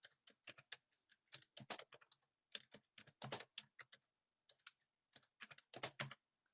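Typing on a computer keyboard: faint, quick keystrokes in short irregular runs.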